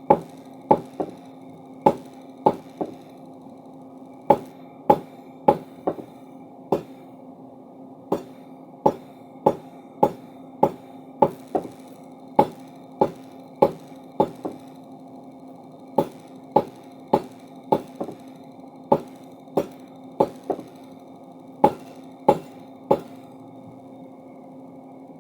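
Forging hammer striking hot steel stock for a crowbar, about thirty sharp blows in runs of several at a time, roughly one every half second or so, with brief pauses between runs. A steady low hum runs underneath.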